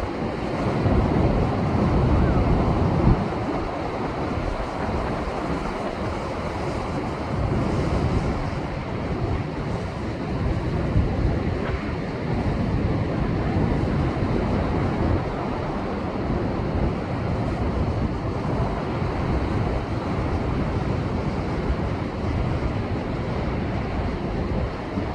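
Rough sea waves surging and breaking against shoreline rocks, a continuous heavy wash of surf, somewhat louder in the first few seconds, with wind buffeting the microphone.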